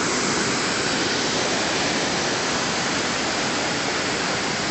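Stream water rushing steadily, a constant even hiss.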